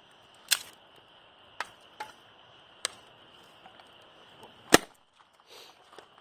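Wood fire crackling: five irregular sharp pops from the burning wood, the loudest a little before the end.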